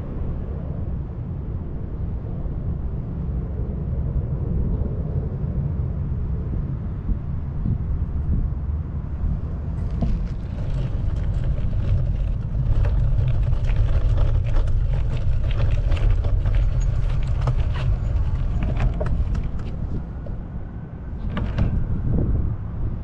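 Low wind rumble on the microphone while riding a bicycle, joined about ten seconds in by a long run of sharp clicks and rattles.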